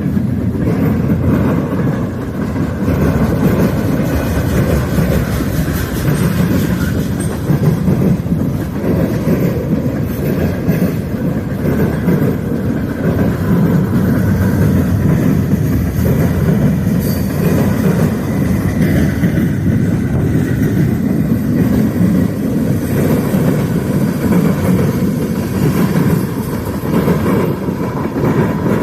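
Freight train rolling steadily past, a continuous loud rumble of cars on the rails.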